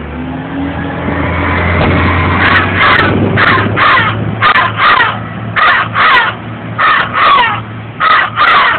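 A man imitating crow caws with his voice: loud, harsh, wavering calls in quick pairs, about six pairs a second or so apart. Street traffic hums underneath, with a vehicle passing in the first couple of seconds.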